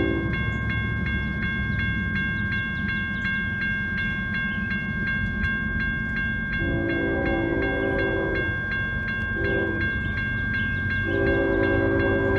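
Diesel locomotive horn sounding the grade-crossing pattern: a long blast ending just after the start, a second long blast, a short one, and a final long blast near the end. Under it a General Signals Type 1 electronic crossing bell rings steadily at about three strokes a second, with a low engine rumble throughout.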